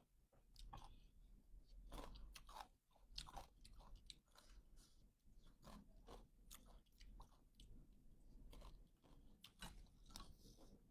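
Faint close-up eating sounds: a person chewing and biting noodle soup, with many short crunches and mouth clicks spread irregularly throughout.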